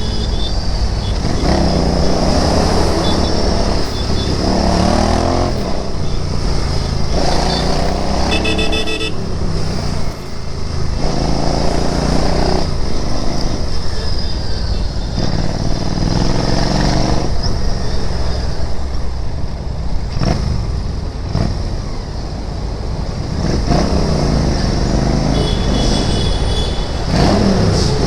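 Royal Enfield Interceptor 650's parallel-twin engine being ridden in traffic, revving up and easing off again and again as the bike accelerates and slows. A vehicle horn sounds briefly about nine seconds in and again near the end.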